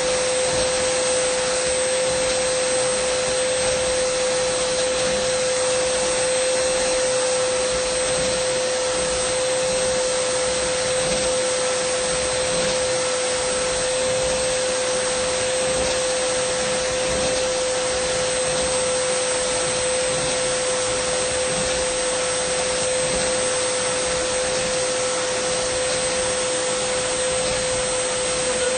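Dyson vacuum cleaner running steadily: a continuous rush of air with a strong whine held at one pitch and a fainter high whistle above it.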